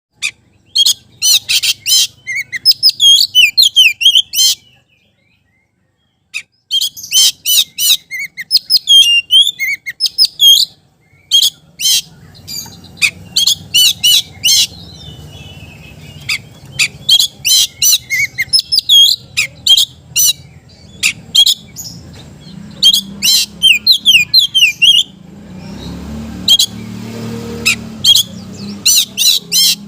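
Oriental magpie-robin (kacer) singing hard in bouts of quick, sharp chirps and whistles, breaking off for a second or two about five seconds in. A faint low hum lies under the song in the second half.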